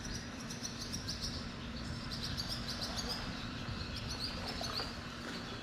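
Small birds chirping, with quick clusters of short high notes repeated throughout, over a steady low rumble.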